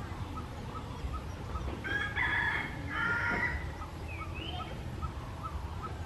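Birdsong: a soft single note repeated steadily about two or three times a second. A loud, drawn-out call lasting about two seconds breaks in about two seconds in, and a short rising chirp follows.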